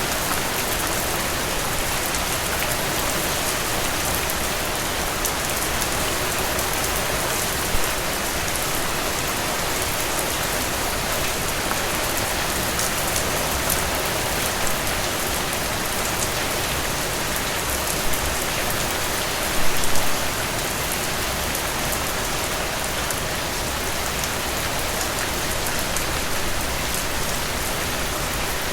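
Heavy rain falling steadily: a dense, even hiss of countless drops, with a few louder single hits standing out, the loudest short cluster about two-thirds of the way in.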